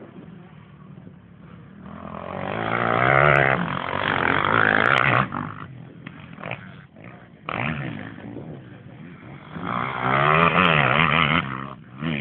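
Motocross motorcycle engines revving hard and changing pitch as they pass. There are two loud spells, one from about two seconds in that cuts off sharply around five seconds, and another near ten seconds in.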